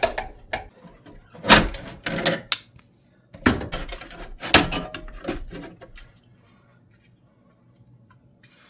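Sheet-metal clatter, knocks and scraping as the burner assembly of a Rinnai tankless water heater is worked loose and slid out of its housing, dying away after about six seconds.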